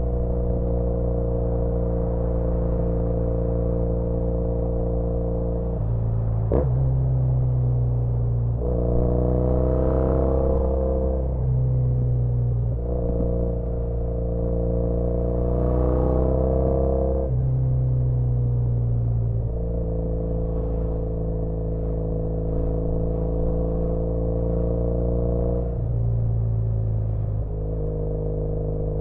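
2013 Triumph Bonneville T100's 865 cc air-cooled parallel twin, heard through British Customs Sleeper Pro aftermarket exhausts while riding. It runs at a steady cruise, then pulls up in pitch twice, with short dips between the rises, before settling into a steady cruise again. There is one sharp click about six and a half seconds in.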